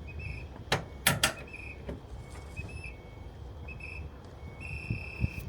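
Three sharp clicks or knocks in quick succession about a second in, fitting the backhoe loader's cab door latch and handle as it is opened to climb inside. Short, high whistle-like tones come and go over a low background rumble.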